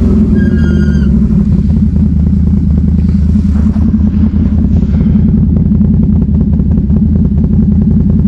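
ATV engine running with a steady low note.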